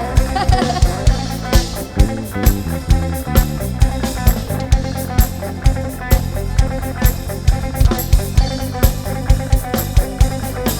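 Live band playing an instrumental passage: guitar over bass and a steady drum-kit beat.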